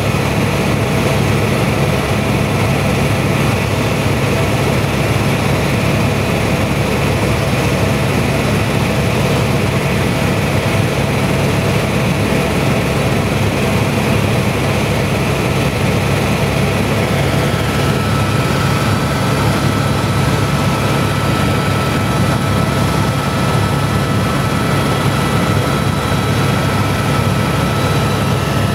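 Helicopter in flight: loud, steady rotor and engine noise with a constant low drone. A thin high whine joins about two-thirds of the way through.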